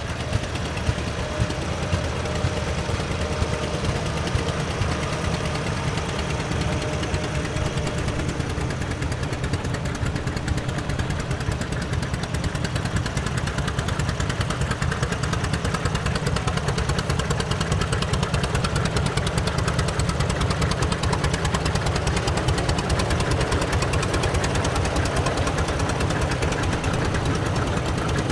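Antique tractor engine running with a fast, even firing beat, getting a little louder over the first half as it comes closer.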